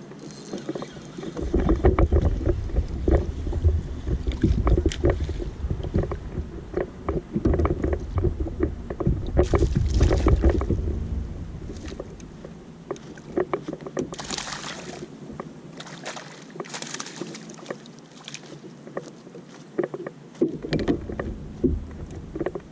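Water sloshing and lapping around a small boat, with wind buffeting the microphone in a low rumble for the first half and again near the end, and a few brief splashy hisses in between.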